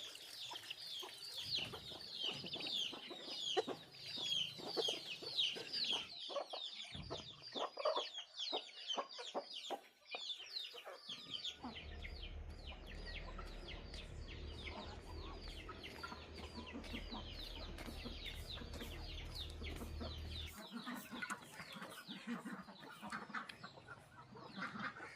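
Chickens clucking and peeping, with a dense run of short, high, falling peeps that thins out after about eight seconds. A low steady rumble joins about halfway through and stops a few seconds before the end.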